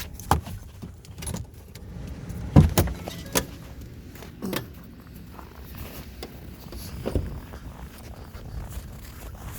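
Car running with its heater on, with a few scattered clicks and knocks of handling in and around the car; the loudest is a double knock about two and a half seconds in.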